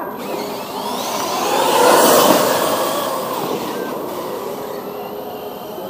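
Two electric 6S RC monster trucks drag racing past: motor whine and tyre noise swell to a peak about two seconds in, then fade away.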